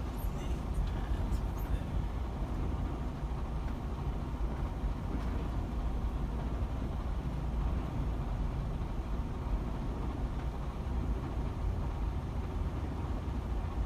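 Steady low rumble of a semi-truck's diesel engine heard inside the cab while the tractor rolls slowly at low speed.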